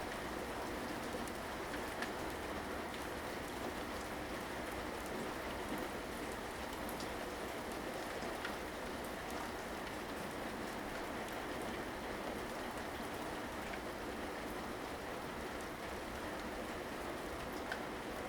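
Steady rain falling, an even hiss with scattered drop taps on a surface.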